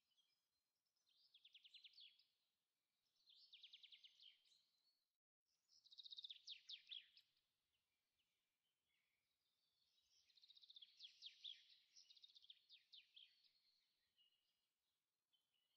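Faint songbird song: short phrases of quick trilling notes, repeated every few seconds, with a longer run of phrases in the second half.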